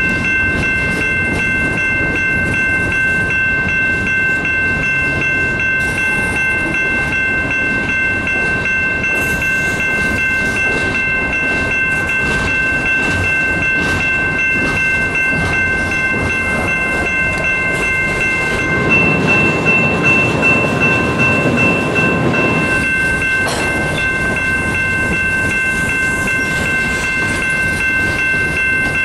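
Freight train cars (covered hoppers and tank cars) rolling past close by, wheels rumbling and clattering on the rail, with a steady high-pitched ringing throughout. The clatter gets louder for a few seconds about two-thirds of the way through.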